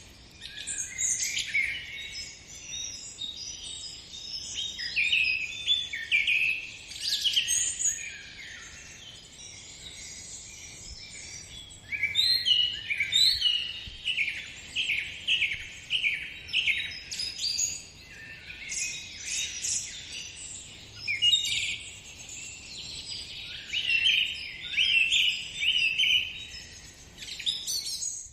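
Birdsong: several birds singing and chirping at once, with rapid repeated trills and short calls. It ends abruptly at a cut.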